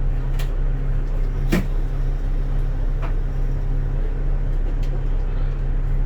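Bus engine running steadily, heard inside the cabin as a constant low drone, with a few short knocks or rattles, the loudest about a second and a half in.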